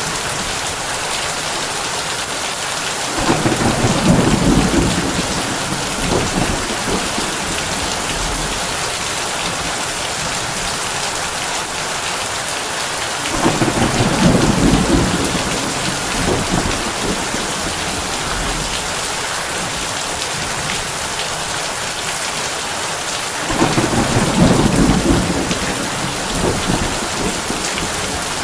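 Heavy rain pattering steadily on a tin roof, with three rolls of thunder rumbling in about ten seconds apart, each lasting a few seconds.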